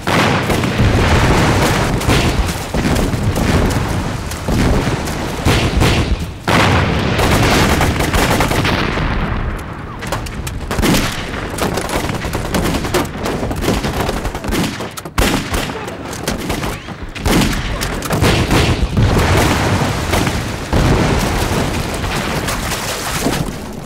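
Heavy, sustained gunfire with machine-gun bursts and booming blasts, the dubbed battle sound effects of a war drama. It keeps up without a break, dipping only briefly about two-thirds of the way through.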